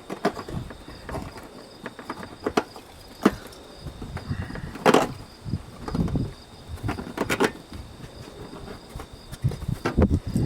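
Key opener being wound on a sealed steel surplus ammunition spam can, peeling back the tear strip: irregular metallic clicks and scrapes with a few sharper clicks. The key is stiff to turn.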